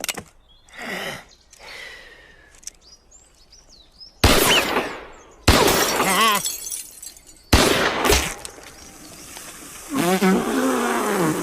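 Cartoon soundtrack: three sudden loud bangs about four, five and a half and seven and a half seconds in, each dying away over about a second, with a man crying out after the second bang and again near the end.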